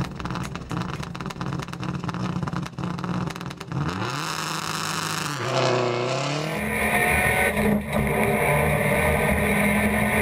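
Subaru Impreza rally car's turbocharged flat-four engine idling roughly, then revved up about four seconds in. From about six seconds in it is held at high revs while the rear tyres spin and smoke in a burnout.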